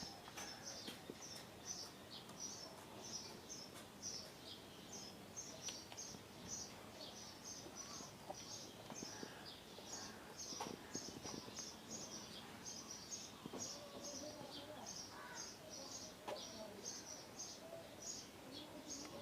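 Small bird chirping over and over, short high chirps at about two to three a second.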